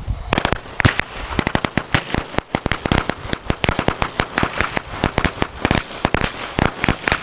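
A string of small firecrackers going off: a rapid, irregular run of sharp bangs and crackles, several a second, that stops near the end.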